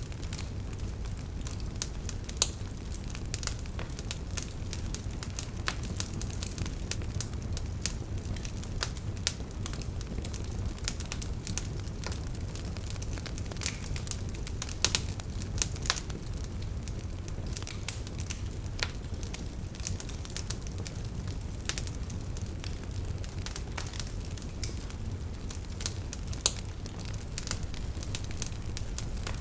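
Campfire of burning firewood crackling, with frequent sharp pops and snaps over a steady low rumble of the flames; a few pops stand out louder.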